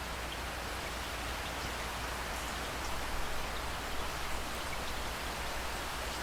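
Steady heavy rain falling on hard surfaces, with scattered individual drops ticking over an even wash.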